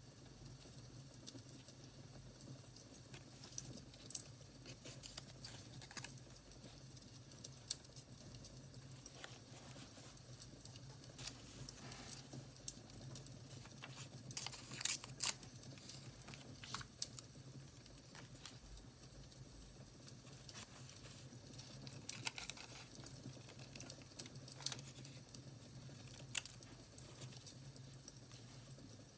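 Faint, scattered light clicks and crinkles of paper and stickers being handled, torn and pressed down for journaling, over a steady low hum. A few louder clicks cluster around the middle.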